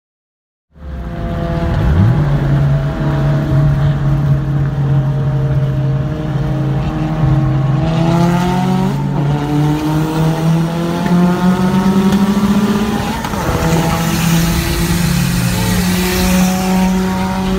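Mitsubishi Lancer Evolution VIII's turbocharged 4G63 four-cylinder running under way, heard from inside the cabin. It starts under a second in; the engine note climbs slowly for several seconds, drops about 13 seconds in, then holds steady.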